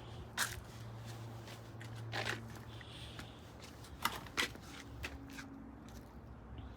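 Footsteps and scuffs of a person walking around, a few sharp clicks among them, over a steady low hum.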